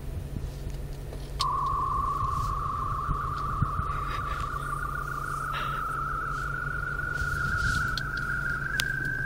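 Warbling electronic whine from a car stereo's speakers, caused by an FM transmitter picking up interference from an iPod charging on it. The tone starts about a second and a half in and slowly rises in pitch over a steady low hum.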